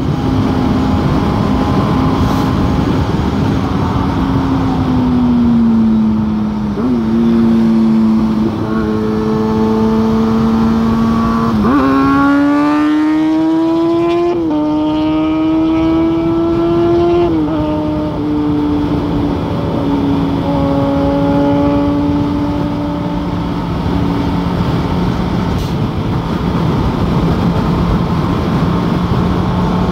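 Suzuki GSX-S750's inline-four engine running at road speed under a steady rush of wind noise. The engine pitch sags a little early on. About twelve seconds in it jumps and climbs for about five seconds as the bike accelerates, drops sharply at a gear change, then eases off and settles to a lower steady note.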